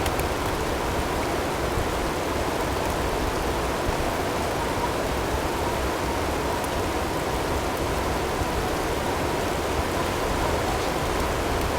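Steady blizzard ambience: an even rush of wind-driven snowstorm noise, with a faint steady tone blended in underneath and a few faint ticks of hail.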